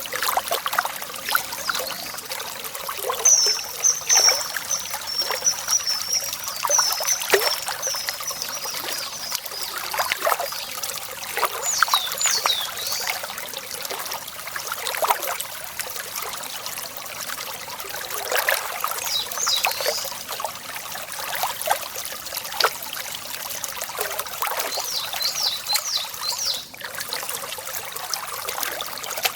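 Water trickling and splashing steadily, with small irregular splashes throughout. A small songbird calls over it: a rapid high trill a few seconds in, then short high chirp phrases three more times.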